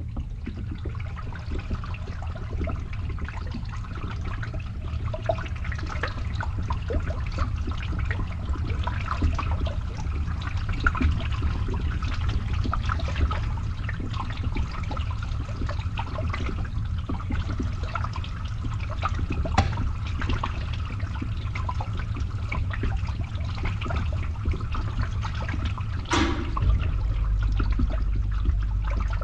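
Water draining and gurgling through a pipe, with small trickles and drips over the steady hum of a running pump. About 26 seconds in there is a short rush of water, and the pump's hum changes just after it.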